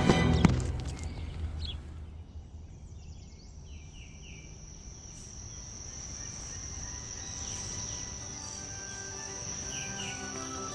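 A loud scary-music hit at the start dies away within about two seconds, giving way to a summer outdoor ambience: a steady high insect trill with a few short bird chirps.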